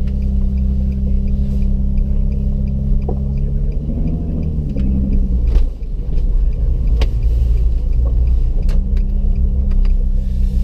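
Nissan Fairlady Z (Z33) VQ35DE V6 with an HKS aftermarket exhaust, heard from inside the cabin. It idles steadily, then the note rises as the car pulls away about four seconds in. After a brief dip it settles into a low, steady drone while driving.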